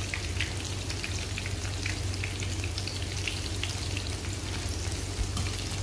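Breaded white fish fillets shallow-frying in hot oil in a pan: a steady sizzle with many small, irregular crackles, over a steady low hum.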